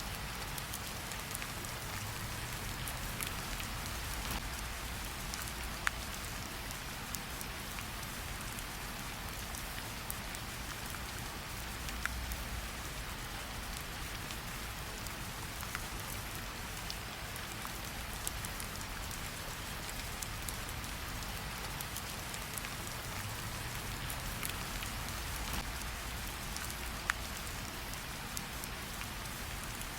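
Steady rain falling, mixed with a campfire crackling, with a few sharper pops from the fire now and then.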